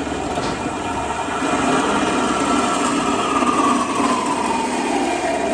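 Metal-cutting bandsaw running and cutting through galvanized steel tubing: a steady motor hum with a blade whine that slowly falls in pitch as the cut goes on.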